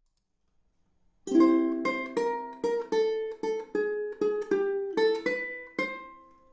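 Ukulele starting about a second in with a strummed chord, followed by about a dozen short plucked notes and chords in a melodic line, each ringing briefly before the next.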